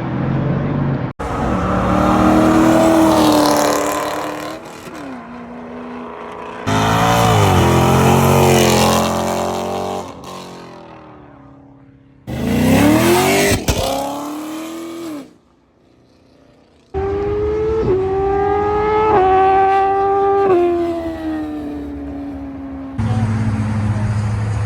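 A run of short, abruptly cut clips of car engines revving and accelerating hard, the engine note sweeping up in pitch and dropping back several times.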